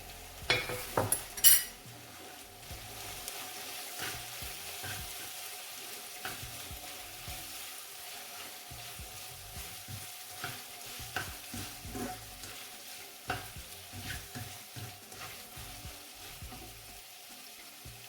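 Chicken, onions and tomato paste sizzling in oil in a metal pot while being stirred, with scattered clicks of the spoon against the pot. A few sharp knocks about a second in are the loudest sounds.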